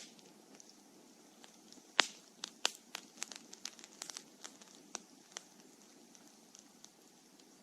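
Wood bonfire burning: a soft low rush of flame under sharp crackling pops, busiest between about two and five and a half seconds in, with the loudest pop at about two seconds.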